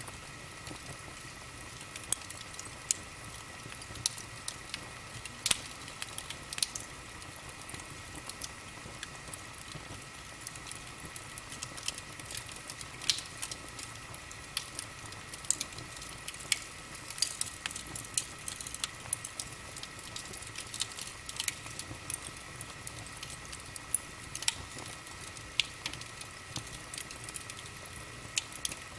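Wood fire burning in a fireplace, crackling with irregular sharp pops over a low steady hiss.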